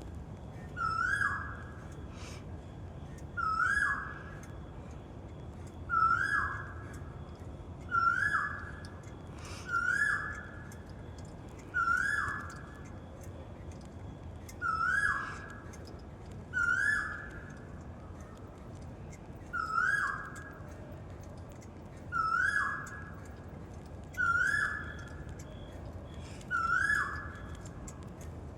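Asian koel calling: a single short whistled note, sweeping up at the start, repeated steadily about every two seconds.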